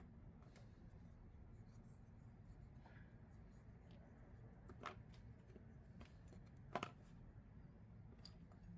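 Faint clicks of small knife parts being handled during a folding-knife disassembly, over a low room hum: a click about five seconds in and a sharper double click shortly before seven seconds.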